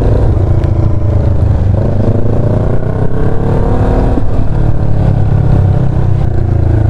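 Motorcycle engine under way, its note climbing steadily for a couple of seconds and then dropping about four seconds in, over a loud low rumble.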